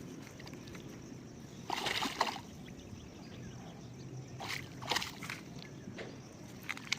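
Water splashing and sloshing: two short splashes, about two seconds and five seconds in, over a faint steady background.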